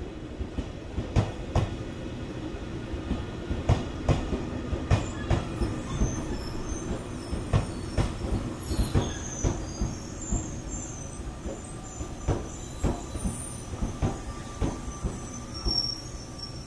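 JR Shikoku 8000 series electric train rolling slowly past: its wheels clack irregularly over the rail joints and points over a low rumble, with a thin high wheel squeal from about five seconds in.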